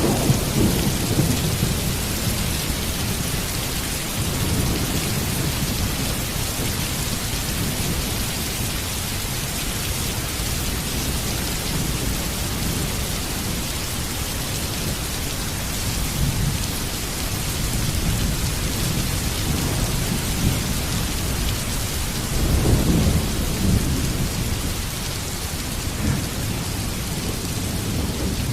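Heavy, steady rain with low rolling thunder underneath. The thunder swells at the start and again about 23 seconds in.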